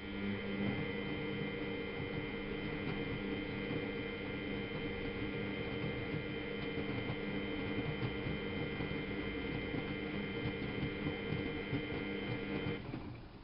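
Miele Novotronic W830 washing machine's motor running: a steady hum with a higher whine over it, which starts with a click and cuts off near the end.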